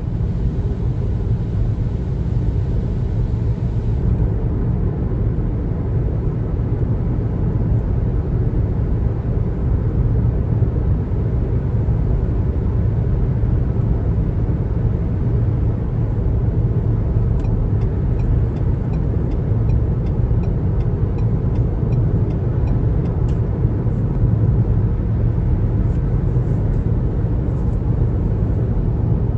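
Steady low road rumble of a car driving on the highway. For several seconds past the middle there is a faint, regular ticking, about two ticks a second.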